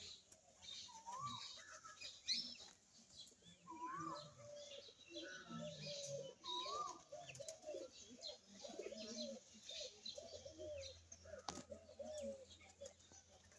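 Several birds calling at once, fairly faint: many short, overlapping calls, some with a quick up-and-down turn in pitch, mixed with higher chirps.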